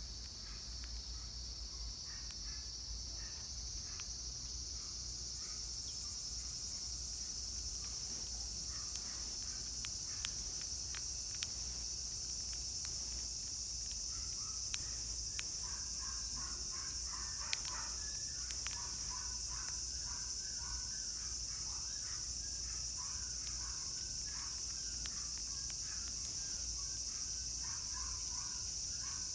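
Cicadas singing in a steady, high-pitched drone that swells over the first few seconds and then holds. Short chirping calls join about halfway, with a few faint clicks.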